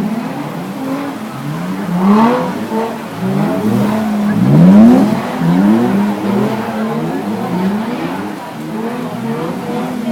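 Drift car's engine revving up and down again and again in quick rising sweeps, loudest about halfway through.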